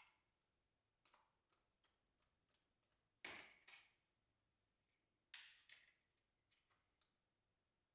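Soft slime being squished and pressed by hand, making a run of faint short squelchy pops and crackles at irregular intervals. The two loudest come a little over three seconds in and about five and a half seconds in.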